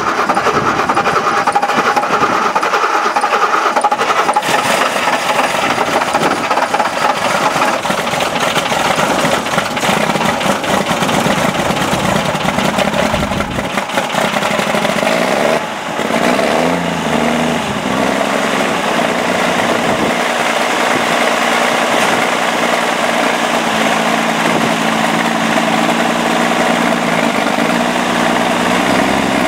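M35A2 deuce-and-a-half's multifuel inline-six diesel engine running just after a cold start, blowing heavy soot. It runs loud and dense at first; about halfway through it dips briefly, then settles into a steadier idle.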